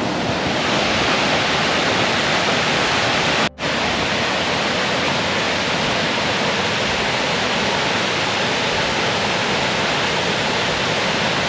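Waterfall rushing: a steady, dense roar of falling water, broken only by a split-second drop-out about three and a half seconds in.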